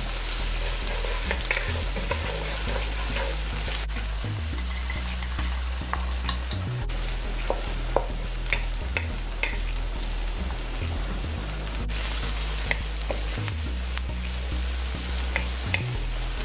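Diced onion sizzling as it fries in hot oil in a nonstick wok, with a spatula stirring and scraping through it and scattered sharp ticks and pops.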